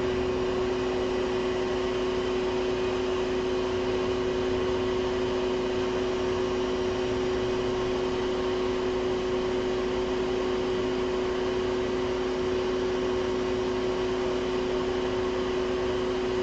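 Hot air rework station blowing steadily while a component is reflowed onto a phone logic board: an even airy hiss over a constant low hum.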